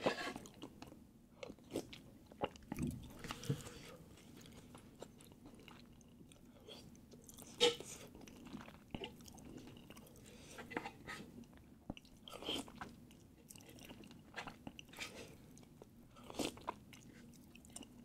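Quiet close-miked eating sounds: chewing with irregular wet smacks and mouth clicks, one sharper click about eight seconds in.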